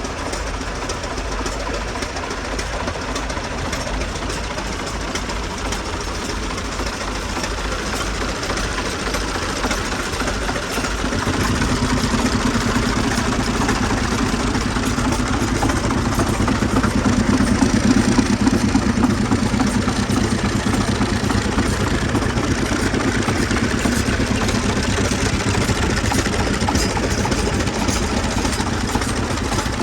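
Old air compressor's engine running steadily with a knocking beat, growing louder and deeper about eleven seconds in and staying so.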